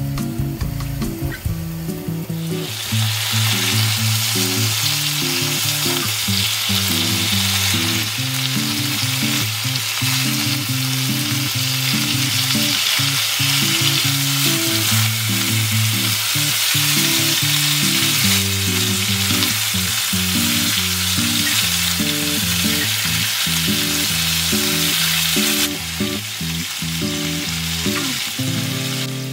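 Whole prawns frying in butter, garlic and olive oil in a pan, sizzling steadily while they are stirred and tossed. The sizzle swells about two and a half seconds in and eases slightly near the end. Soft background music plays underneath.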